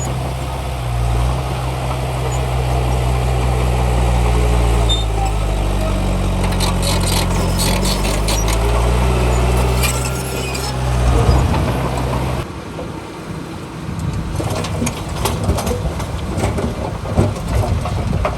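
Heavy diesel engine of earthmoving machinery running, its pitch dipping and rising for a few seconds mid-way. It cuts abruptly, about two-thirds of the way in, to a noisier clattering and rattling with the engine lower in the mix.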